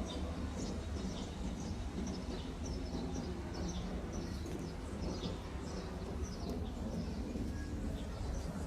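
Small birds chirping, many short high chirps repeating several times a second, over a steady low rumble.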